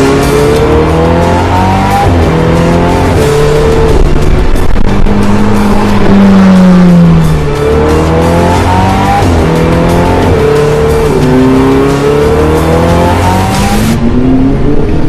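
Ferrari 488's twin-turbo V8 through a titanium exhaust, accelerating hard: the pitch climbs and drops back several times as it shifts up. About halfway through there is one long falling sweep as it slows, then it pulls up through the gears again.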